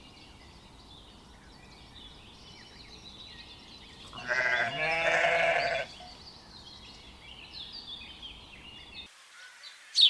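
A sheep bleats once, a wavering call lasting nearly two seconds that starts about four seconds in, over a background of short high chirps.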